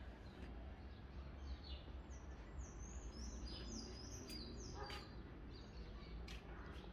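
Faint birds chirping: a run of short, high chirps through the middle, over a steady low rumble, with one sharp click about five seconds in.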